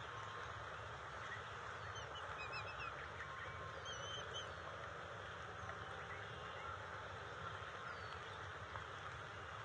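Steady outdoor background hiss with a few short, high bird chirps: a cluster about two seconds in and another about four seconds in.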